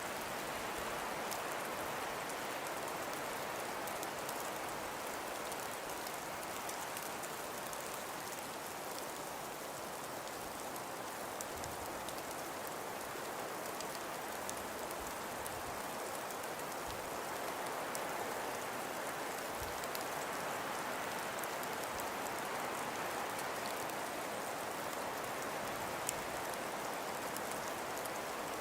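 Wind-driven snowfall: a steady, even hiss that swells and eases slowly, with many fine crisp ticks of snow striking.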